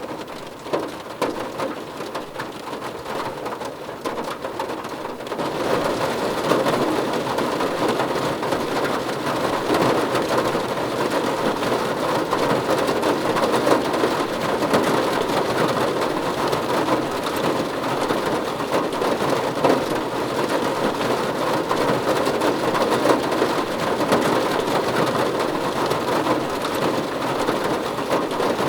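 Rain drumming on a car roof, a dense steady patter of drops that grows heavier about five seconds in.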